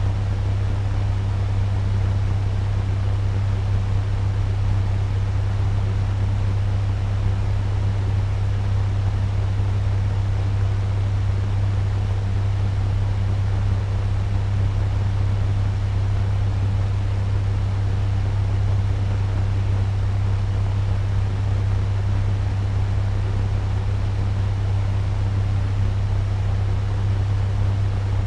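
Turbo fan running steadily at medium speed: an even rushing of air over a strong, constant low hum, with no change in speed.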